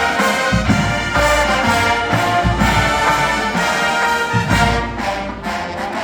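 Marching band playing a TV theme medley, with brass carrying the tune over a low bass line that pulses about once a second.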